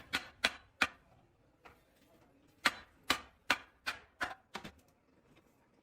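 Hammer blows on a steel truck rim: three quick strikes, a pause of nearly two seconds, then a run of about six strikes at two to three a second that grow weaker and stop.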